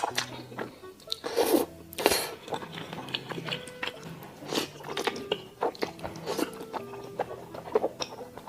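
Close-miked eating sounds: a person chewing and biting, with a quick run of sharp wet clicks and crunches and a couple of longer smacks.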